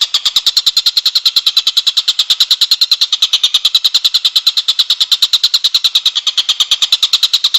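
A songbird's rapid, steady trill of about fourteen sharp notes a second, high-pitched and unbroken throughout, from a bird-song training (masteran) recording.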